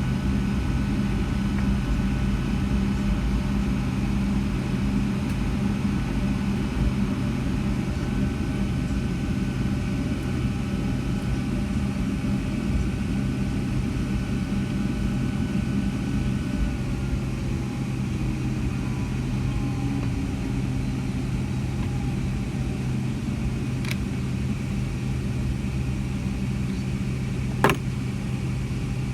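Cabin noise inside a Boeing 757-200 taxiing at low power: a steady engine and air-system hum with a low rumble, with a whine that falls slowly in pitch around the middle. A sharp click sounds near the end.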